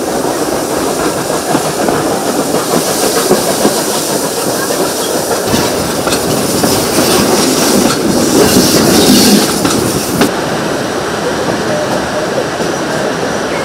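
Steam-hauled heritage passenger train running along the track, heard from a carriage window: a steady rumble of wheels on rail with a clickety-clack from the rail joints. The sound turns duller abruptly about ten seconds in.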